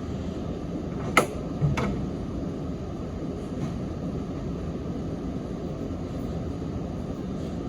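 Sanyo Electric Railway 3050 series train running, heard from inside the car as a steady rumble. About a second in come two sharp knocks about half a second apart, the wheels striking a rail joint.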